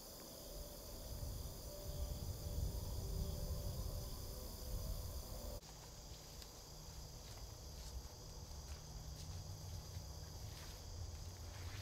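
Steady chirring of insects in the woods over a low rumble. About halfway through the sound changes abruptly and the insects become fainter, with light rustling clicks near the end.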